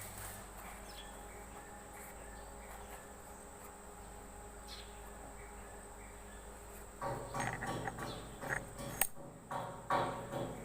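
Steady high-pitched insect drone, with a low steady hum under it. In the last three and a half seconds there is a run of irregular clatter and knocks, the loudest with a sharp click.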